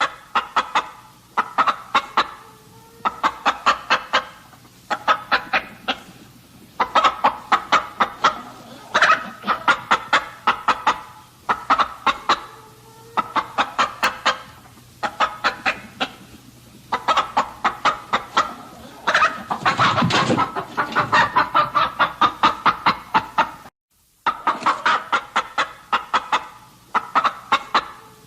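Chickens clucking in repeated runs of short, rapid clucks, with a louder, fuller call about twenty seconds in.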